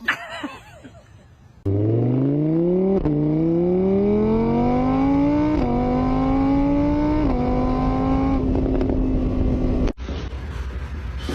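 Car engine accelerating hard through the gears. Its pitch climbs, drops sharply at each of three gear changes, climbs again, then holds near the top and cuts off suddenly.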